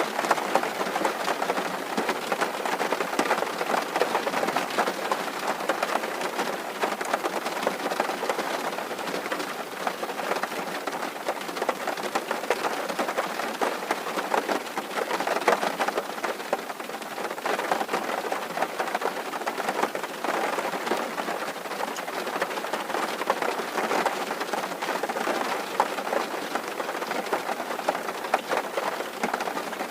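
Steady rain drumming on a tin roof, a dense patter of many small drop impacts.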